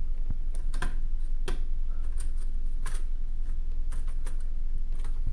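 Scattered sharp clicks and taps of plastic laptop chassis parts being fitted into their slots on a ThinkPad T430, over a steady low hum.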